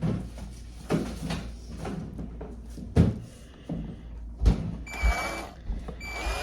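Knocks and clunks of motorcycle plastics and tools being handled in a small workshop, several sharp knocks a second or so apart, then two short high-pitched whirs near the end.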